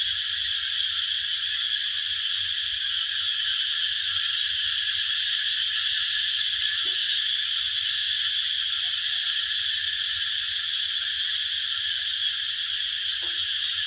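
A steady, unbroken chorus of small calling animals, dense and high-pitched, with a few faint short low calls about halfway through and near the end.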